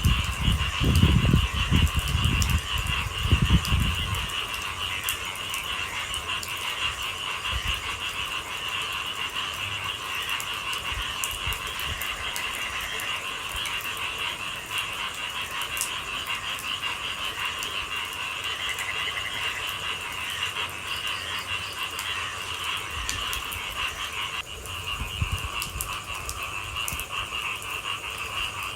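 A dense chorus of frogs calling at night, a steady massed trilling. Low rumbling is heard for the first few seconds.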